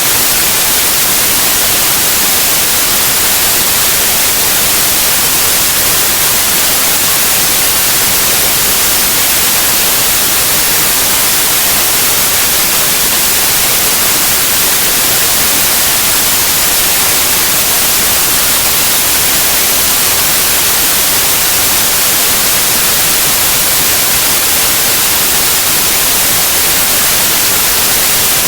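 Steady white noise: an even hiss, strongest in the highs, with no change throughout.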